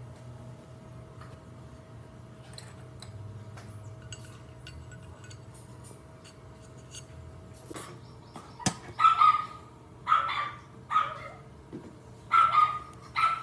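A dog barking: five short barks in the second half, over a low steady background hum with a few light clicks.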